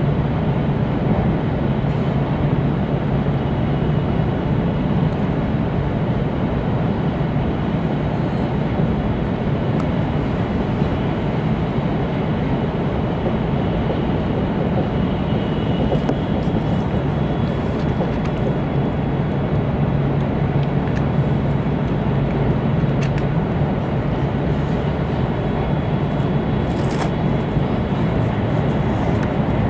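Cabin running noise of an E2-series Shinkansen train: a steady low rumble and rush from the wheels and air, with a few faint ticks.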